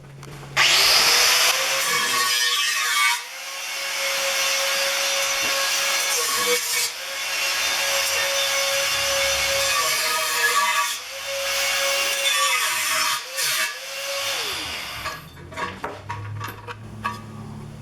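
Angle grinder with a thin cutting disc cutting a 3 mm aluminium plate. It starts loudly about half a second in, runs with a steady whine that dips in pitch several times as the disc bites into the metal, and stops near the end, followed by a few light knocks.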